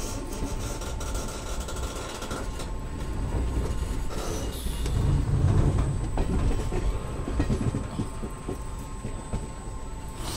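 Passenger train running along the track, heard from beside an open coach door or window: a steady rumble and rush of wheels on rail with light clicking over the rail joints. The rumble grows louder for a couple of seconds about halfway through.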